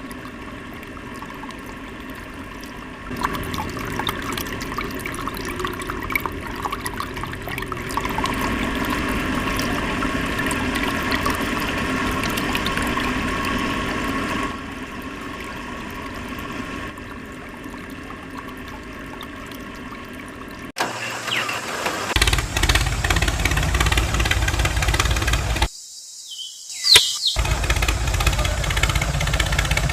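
A small motor running steadily, with water rushing, as the homemade water pump on a DIY mini tractor works. About two-thirds of the way through it gives way abruptly to a louder, deeper engine-like running sound, which briefly cuts out near the end.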